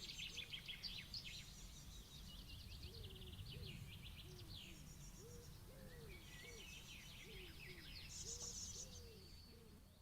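Outdoor nature ambience from a sound-effects library: many songbirds chirping and trilling, with a lower call repeating every second or so over a faint steady low rumble. It fades down near the end.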